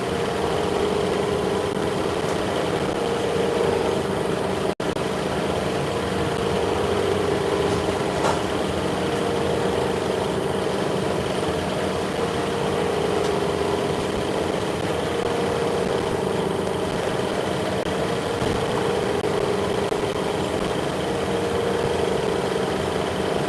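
Steady mechanical hum of machinery running, with a few constant tones over it. It cuts out for an instant about five seconds in.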